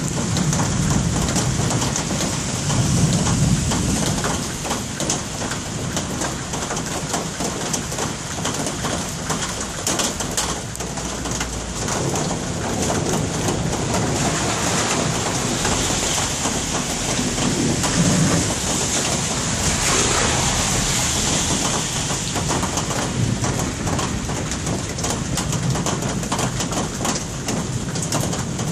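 Steady rain falling, a dense even hiss made up of many small drop ticks.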